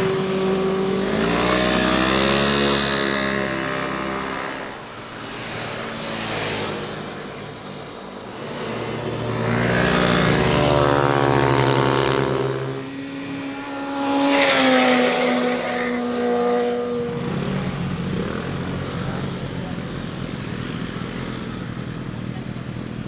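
Motorcycles riding past one after another, their engines revving and climbing in pitch as they accelerate. Three loud passes, with quieter engine noise near the end.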